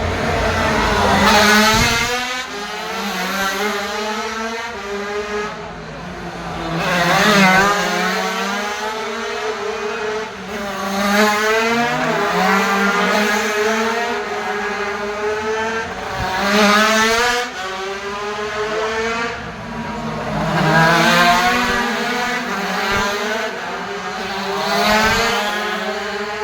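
A pack of 80cc racing motorcycles passing again and again, loudest roughly every four to five seconds. Several small engines are heard at once, each rising in pitch through the gears and dropping back.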